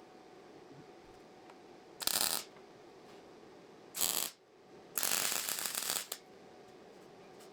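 MIG welder laying short tack welds on thick steel: three separate bursts of crackling, two brief ones and then a longer one of about a second.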